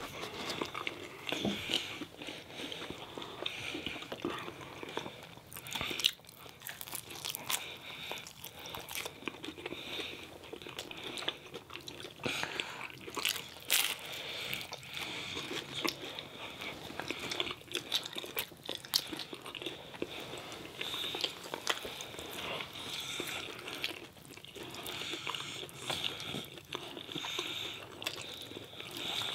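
Close-miked eating: food being bitten and chewed, with many small sharp crunches and clicks, the loudest bites about 6 and 14 seconds in.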